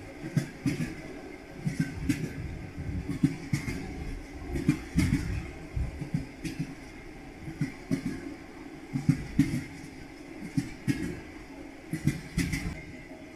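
Railway carriage wheels clattering over rail joints: a steady low rumble broken by frequent, unevenly spaced knocks and clusters of clacks.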